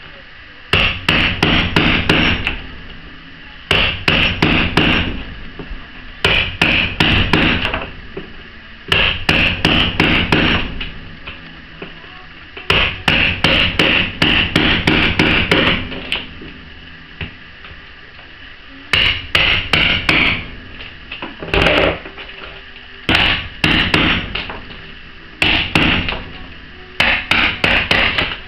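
Hammer striking a chisel to cut out a laminate floor plank: about ten bursts of quick, sharp blows with short pauses between them.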